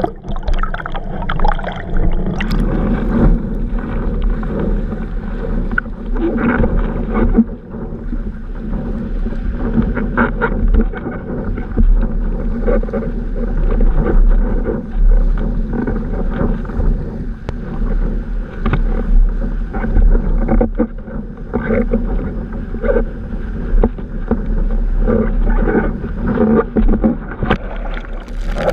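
Strong wind buffeting the microphone with a heavy low rumble, over water rushing and splashing irregularly against a windsurf board under sail.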